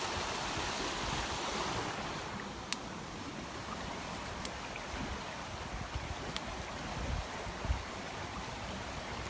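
Steady rush of a flooded river's fast-flowing water, with wind rumbling on the microphone. Three thin sharp clicks come through during it.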